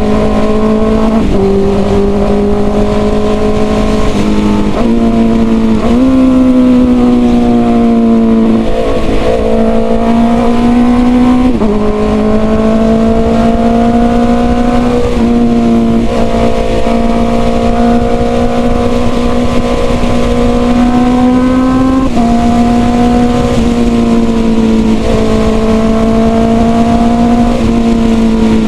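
Honda CB650R's inline-four engine with a full-system aftermarket exhaust, running under way; its note climbs steadily and drops back sharply several times as the rider rolls on and shifts gear.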